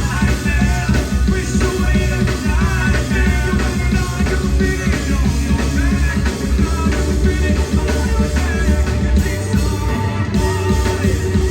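Live rock band playing loudly: drums, bass and guitars, with a wavering lead melody over the first seven seconds or so.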